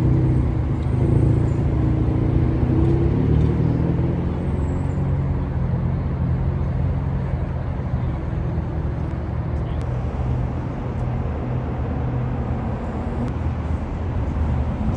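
Car engines running at low revs, a steady low engine note that wavers a little in pitch over the first few seconds.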